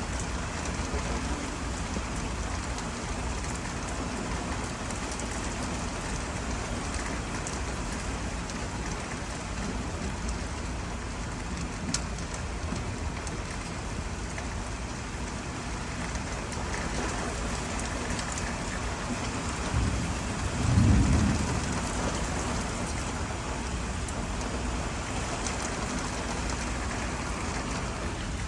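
Steady rain falling, an even hiss of drops, with a brief low rumble of thunder about twenty seconds in.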